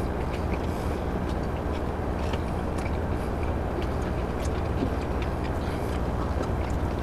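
Chewing and small wet mouth clicks of people eating sandwiches, over a steady low hum inside a car.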